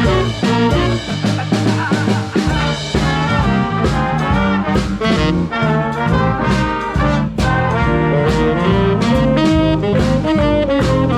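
Swing big band playing, with brass horns carrying the tune over a steady drum beat.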